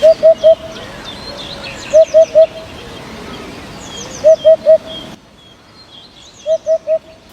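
A bird calling in groups of three short, loud, slightly rising notes, four groups about two seconds apart, with fainter high chirps of other birds behind.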